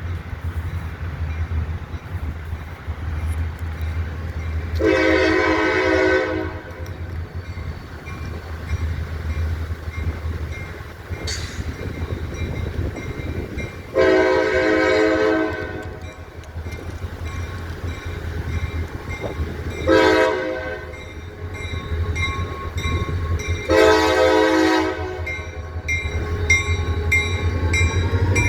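CSX diesel locomotive 6460's air horn sounding the grade-crossing signal: two long blasts, a short one, then a long one. Under it the engine rumbles steadily, and wheel clicks over the rail joints build up near the end as the train comes closer.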